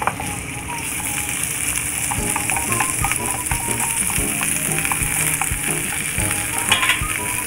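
Chicken gizzards sizzling in hot olive oil in a frying pan, with wooden chopsticks clicking against the pan as the pieces are pushed apart. Light background music plays over it.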